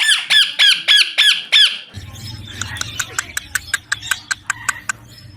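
Young parrot squawking in a fast run of loud, short, falling calls, about five a second, for nearly two seconds, then a quicker series of thinner, shorter chirps.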